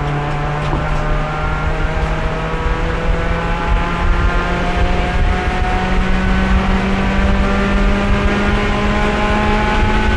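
Race car engine heard onboard, pulling under load, its pitch climbing slowly and steadily as the car accelerates in a single gear, held in fourth because the failing transmission has no third and won't shift at speed. Road and wind rumble run underneath.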